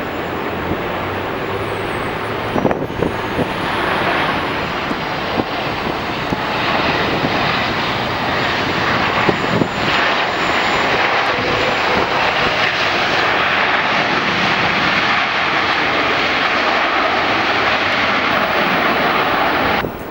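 Jet airliner engine noise, a dense loud rush that builds over the first several seconds and holds, with a few brief knocks early on and around the middle; it cuts off abruptly near the end.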